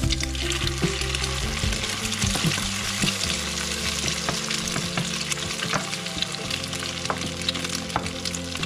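Eggs and chopped garlic frying in hot oil in a pan, a steady sizzle, as a spatula stirs and scrambles the eggs with scattered scraping clicks against the pan.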